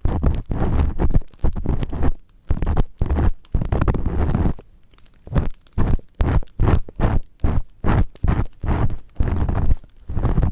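An earpick scraping firmly inside the ear of a 3Dio binaural ear-shaped microphone, in repeated scratchy strokes about two a second, with a short pause about halfway.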